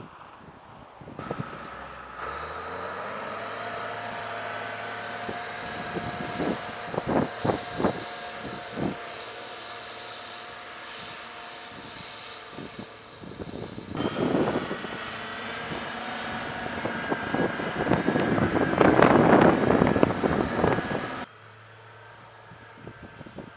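Motor vehicle running in snow across several shot changes, with a steady whine, scattered knocks, and a louder, rougher stretch about three-quarters of the way through.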